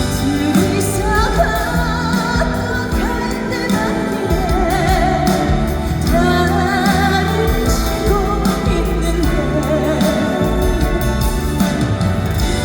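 A woman singing a trot ballad with a wide vibrato on held notes, over band accompaniment.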